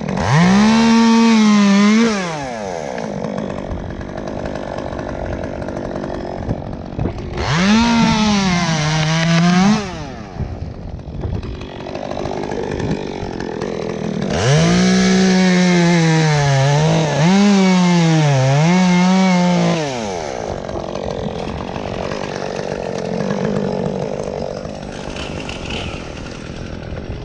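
Chainsaw revving up and cutting in three bursts: a short one at the start, another a third of the way through, and a longer one past the middle. Its pitch sags and recovers as the chain bites, and it drops back to idle in between.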